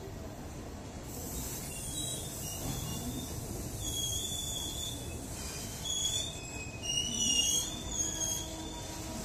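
Indian Railways covered goods wagons rolling slowly past, their wheels making a low rumble on the rails. From about two seconds in, high wavering wheel squeals come and go over the rumble.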